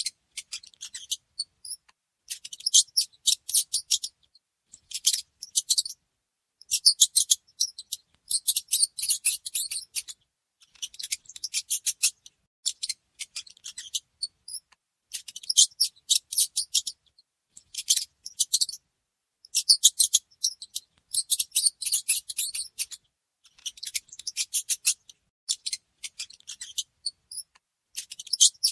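Small mice making quick, high-pitched scratchy clicking and chittering. It comes in bursts of about a second, broken by short silences.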